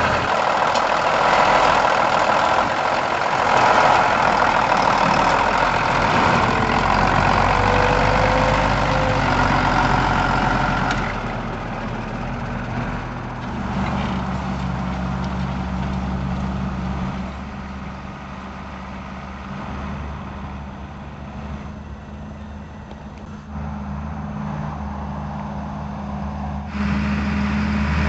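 Lamborghini R7 200 tractor's engine running steadily while ploughing. A louder rushing noise sits over it for the first ten seconds or so, then it settles to a quieter, steady low engine hum.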